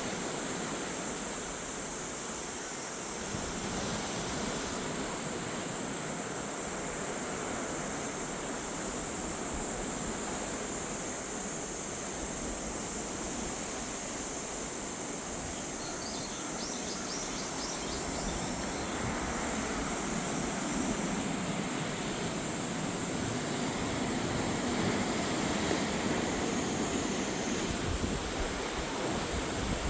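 Sea surf washing against the shore, with wind. A steady high-pitched insect drone sits over it, and a few brief high chirps come about halfway through.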